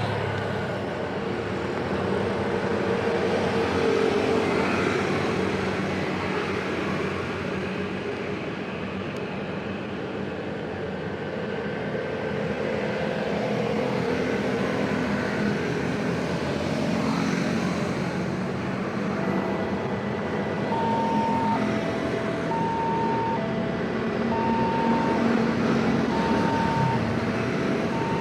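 Dense road traffic: many vehicle engines and exhausts running past. About two-thirds of the way in, an alternating two-note electronic warning tone starts up and repeats steadily: a railway level-crossing alarm.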